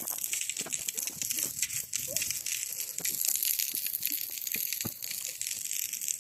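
Maandazi deep-frying in hot oil: a steady sizzle with fine crackling.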